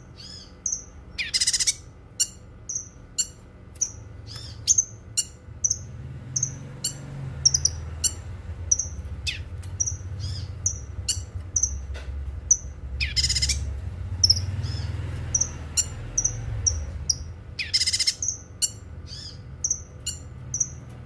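Cucak kinoi songbird singing: short, sharp, high chirps repeated about twice a second, broken three times by a longer, louder, shrill call. A low rumble runs underneath through the middle.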